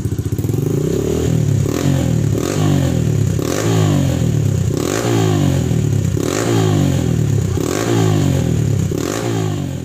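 Trail motorcycle engine running through a homemade 'roncador' rumble exhaust, its throttle blipped over and over about every three-quarters of a second. Each rev falls back in pitch, with a sharp snap at its start.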